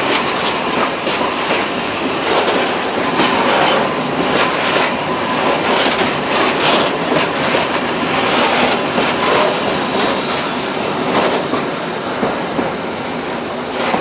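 Loaded freight hopper wagons rolling past, their wheels clattering over the rail joints in an uneven clickety-clack. The sound eases off near the end as the last wagon goes by.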